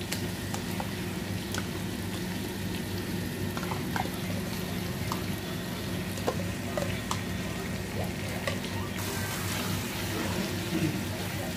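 Onion-tomato masala sizzling in a cooking pot as spoonfuls of yogurt go in and are stirred through with a spatula. Scattered sharp clicks of spoon and spatula against the pot sound over a steady low hum.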